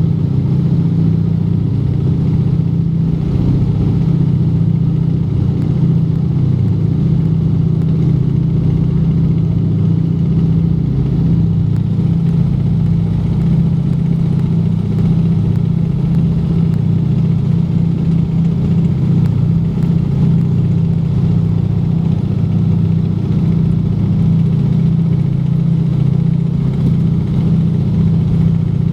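Junkers Ju 52 trimotor's three radial engines running in flight, a steady low drone with no change in pitch or level.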